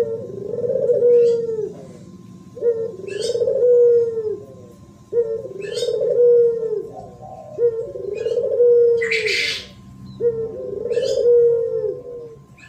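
Spotted dove cooing: a low, repeated phrase, five of them about two and a half seconds apart, in the 'thổ pháp' cooing style used to call in wild doves. A short burst of hiss about nine seconds in.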